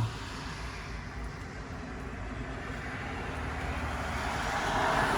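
Vehicle noise: a steady low engine rumble, with a rushing sound that swells to its loudest near the end.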